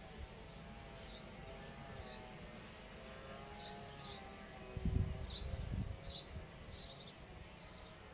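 Quiet outdoor ambience: short high chirps repeating every half second or so, with a wavering insect buzz. A brief low rumble about five seconds in is the loudest moment.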